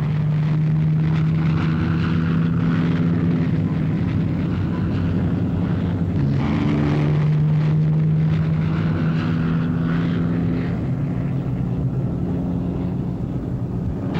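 Piston engines of Hawker Hurricane fighters droning steadily in a dive. The engine note shifts pitch about six seconds in.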